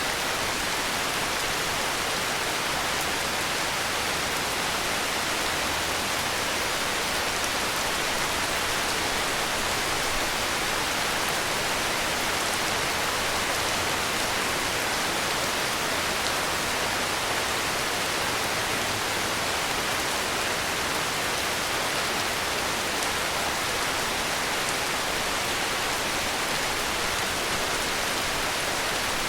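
Heavy rain falling steadily: a dense, even hiss with no thunder or sudden sounds.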